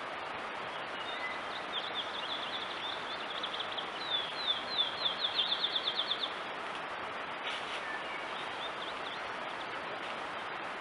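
A songbird singing: a run of quick, high, down-slurred notes that come faster and louder over about five seconds, with a few fainter notes later. Steady hiss behind it and one click partway through.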